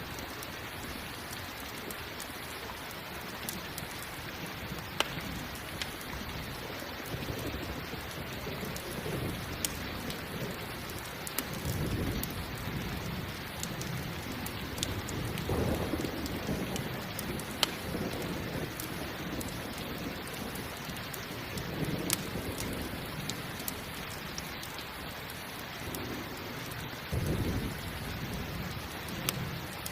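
Steady rain with several low rolls of thunder swelling and fading. Scattered sharp pops from a crackling campfire.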